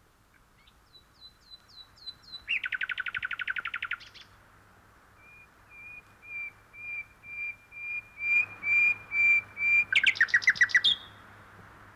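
Small birds chirping and trilling: a run of short falling chirps, then a fast trill, then a steady string of chirps joined by a louder, rapid trill near the end.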